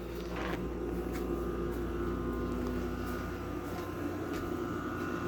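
A steady mechanical drone from a running motor, holding a few even tones without change.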